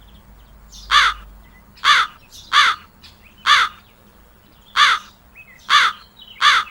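A crow cawing: seven short, harsh caws, roughly a second apart.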